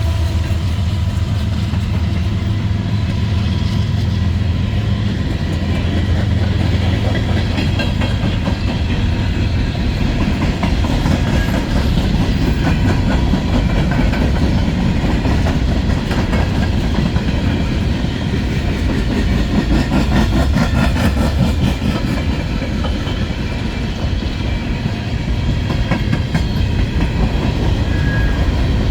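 Freight train of empty coal gondolas rolling past, a steady rumble with wheels clicking over rail joints. A low engine drone is heard in the first few seconds and fades out.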